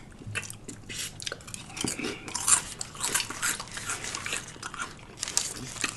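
Close-miked biting and chewing of a lettuce-wrapped Italian sub, a run of irregular wet crunches and crackles.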